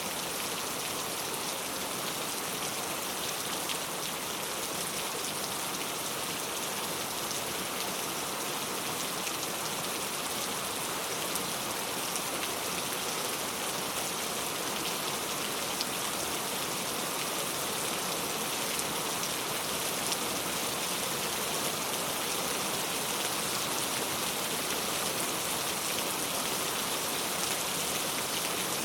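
Heavy rain falling steadily: an even hiss with the fine patter of countless drops, unchanging throughout.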